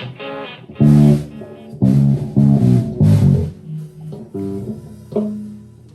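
Improvised playing on a plucked string instrument in a low register: a quick run of notes in the first half, then a few sparser notes, the last one ringing on near the end.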